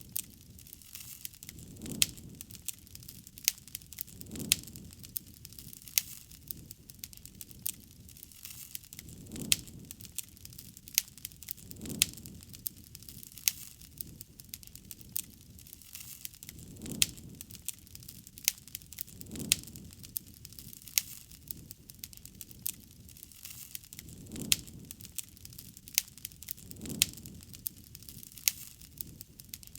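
Wood campfire crackling, with frequent sharp pops and snaps throughout. Soft low rushes of the flames swell every two to three seconds.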